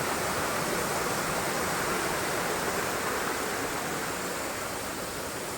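Waterfall: a steady rush of falling water, growing slightly quieter near the end.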